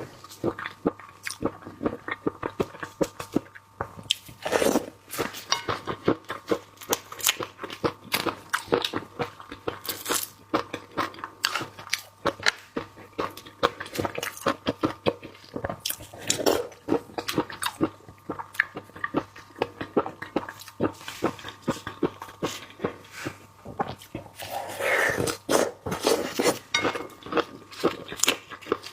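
Close-up eating of marinated prawn heads: continuous crunching and chewing as shell cracks between the teeth, in rapid crackling bites. There are a few louder stretches, the longest near the end.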